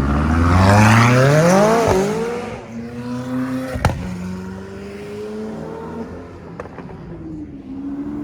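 A car engine revved hard, its pitch climbing for about two seconds before dropping back, then running steadily at a lower speed. There is a single sharp crack about four seconds in.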